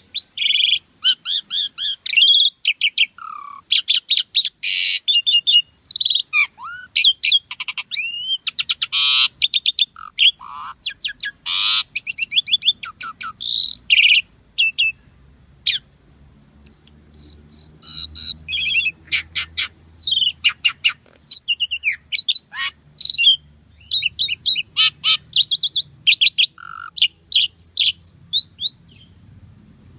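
Asian pied starling (jalak suren) singing vigorously: a long, rapid run of varied chirps, whistles and buzzy trills, with a short lull about halfway through.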